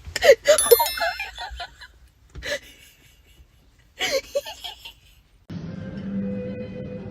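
Someone laughing in short bursts with quiet gaps between them. Background music starts about five and a half seconds in.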